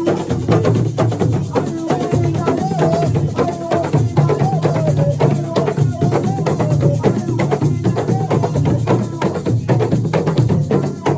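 Assiko music: a dense, fast percussion rhythm of hand drums and struck percussion over a deep drum, with a voice singing a wavering melody over it.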